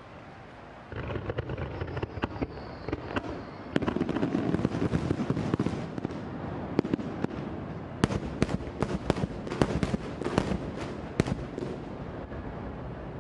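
Aerial fireworks going off in rapid succession: a dense run of bangs and crackling starting about a second in, with a cluster of sharp reports in the second half, thinning out near the end.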